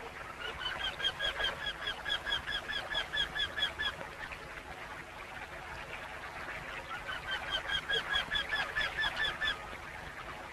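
A bird calling in two runs of rapid, repeated short notes, about five a second, each run lasting a few seconds, over a faint steady jungle background.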